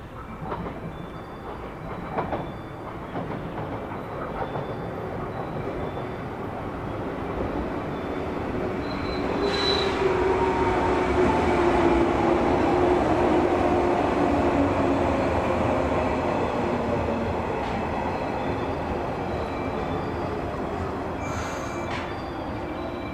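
JR 115 series electric train arriving, its wheels clicking over the points and rail joints as it draws near, then growing louder as the cars pass, with a falling whine as it brakes and slows along the platform. A couple of short hisses come near the end.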